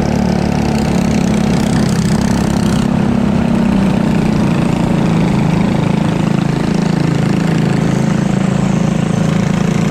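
Briggs & Stratton LO206 single-cylinder four-stroke kart engine running steadily, its pitch wavering slightly.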